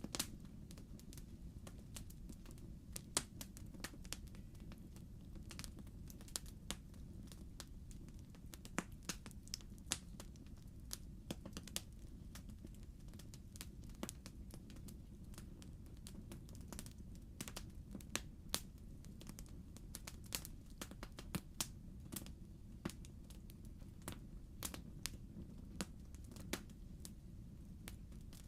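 Burning logs in a fireplace crackling: irregular sharp pops and snaps, a few of them louder, over a steady low rumble of the fire.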